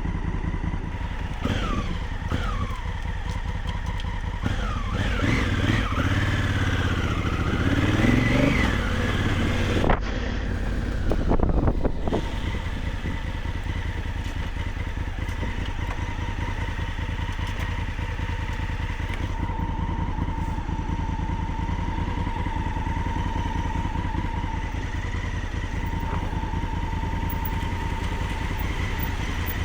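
Motorcycle engine, revving up and down through roughly the first twelve seconds, then running at a steady pace.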